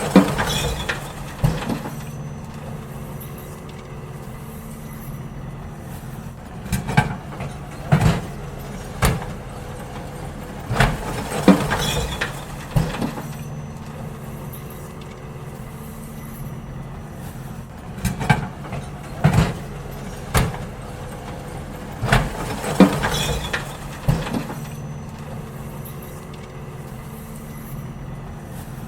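Garbage truck's diesel engine running steadily while wheelie bins are emptied. Clusters of bangs and clatters from the bins come every few seconds over the hum, several times.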